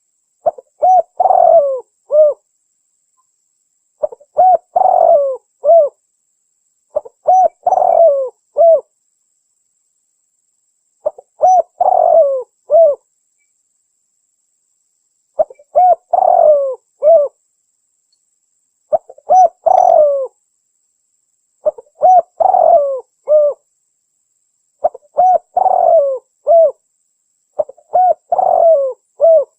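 Spotted dove cooing, a recorded lure call used to draw in doves for hunting. The phrase repeats nine times, each a quick run of rising-and-falling coos ending on a separate last note, with dead silence between phrases.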